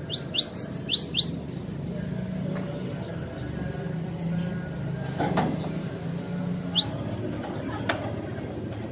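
Cinereous tit (glatik batu) calling: a quick run of five sharp, rising notes in the first second and a half, then a single rising note about seven seconds in. A faint steady low hum runs underneath.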